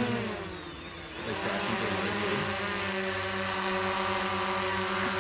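Small quadcopter drone's propellers buzzing. The pitch and level drop over the first second or so, then it holds a steady hover.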